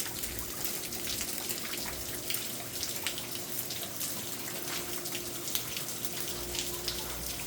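Heavy rain falling steadily, with many individual drops and drips ticking through the steady rush of water. A faint steady hum sits underneath.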